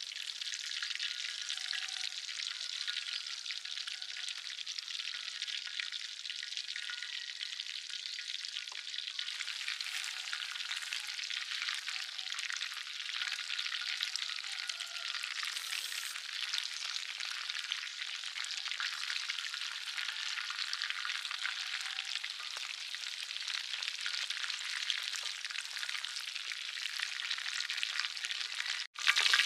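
Chicken legs frying in hot oil in a metal pan: a steady, dense sizzle, with the pieces stirred and turned by a spatula. The sound drops out for a moment just before the end.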